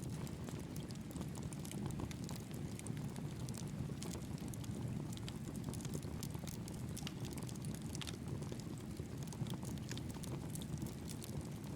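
Campfire crackling with irregular small snaps over the steady rush of a mountain stream.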